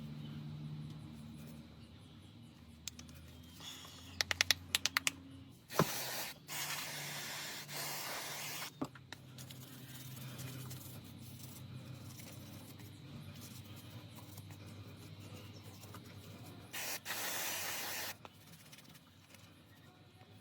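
Two bursts of spray hiss, each about two seconds long, with a quick run of sharp clicks shortly before the first.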